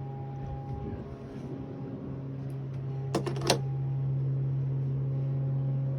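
Electric fans running with a steady low hum, broken about three seconds in by two sharp clicks a third of a second apart, a fan switch being worked.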